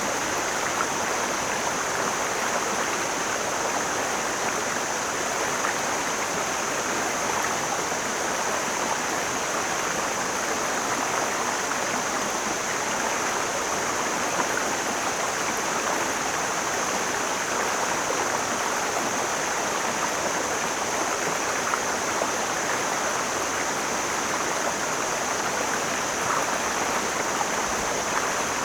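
Mountain stream flowing steadily: an even, unbroken rush of water with a steady high hiss.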